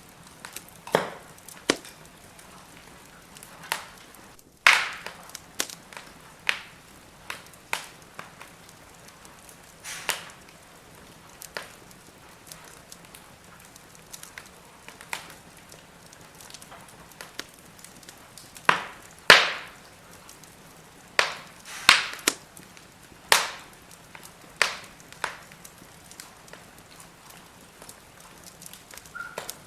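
Firewood burning in a fire pit, crackling: irregular sharp pops and snaps over a faint steady hiss. The loudest pops come a few seconds in and about two-thirds of the way through.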